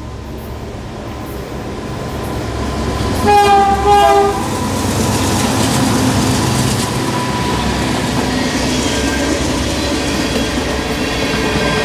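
BNSF freight train passing close by: the lead diesel locomotive's horn sounds two blasts about three seconds in. The locomotives' engines rumble past and the freight cars' wheels clack over the rail joints, growing louder and then holding steady.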